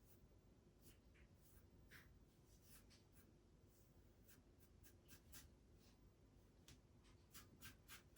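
Faint scattered clicks and scratchy scraping, coming more often near the end, from a plastic wall plug coated in polyfiller being pushed back into its hole in the wall.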